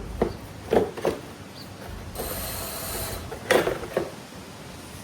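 Mechanical knocks and clicks, several in quick pairs, from hand work on air compressor parts, with a stretch of hiss between them.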